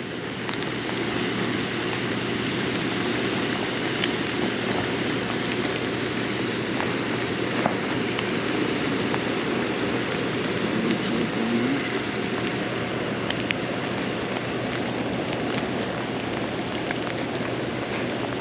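Steady hiss of rain falling, mixed with fast-running river water at a dam spillway.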